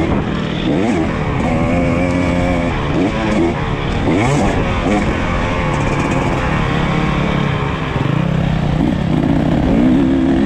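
KTM EXC 300 TBI two-stroke engine being ridden hard, revving up and falling back over and over. There are rising sweeps under throttle and a few short stretches held at steady revs.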